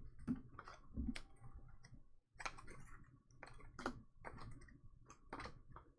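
Baseball trading cards being handled and flipped through: a run of soft, irregular clicks and taps.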